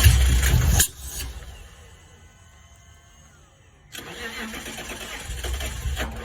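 BMW S52 3.2-litre straight-six being cranked by its starter without catching. One attempt cuts off about a second in, and a second attempt starts around four seconds in and stops near the end. The engine fails to fire.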